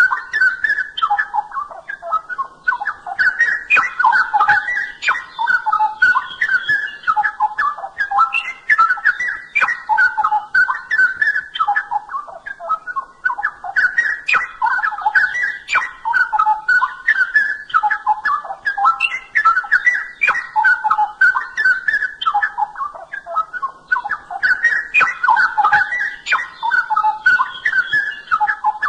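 Straw-headed bulbul (cucak rowo) singing in full 'gacor' voice: rich, bubbling, warbled phrases of gliding whistled notes, with short pauses between long song bouts about every eleven seconds.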